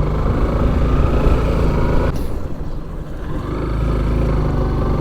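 Motorcycle engine running on the road, heard from inside the rider's helmet, with a heavy low wind rumble on the lavalier mic. The engine note dips a little after two seconds in, then climbs again as the bike speeds up.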